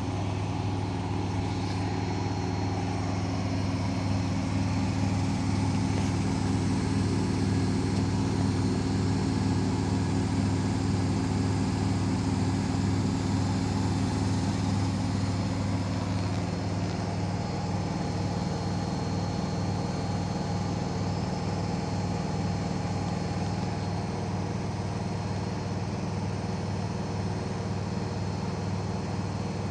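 Washing machine in its high-speed spin, the drum spinning fast to wring the water out of the washed clothes near the end of the cycle: a steady hum made of several steady tones, which shift a little about halfway through.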